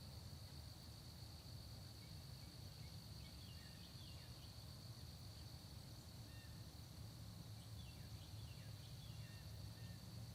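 Faint dawn countryside ambience: a steady high insect trill, a low steady rumble, and scattered short bird chirps, clustered about three seconds in and again near the end.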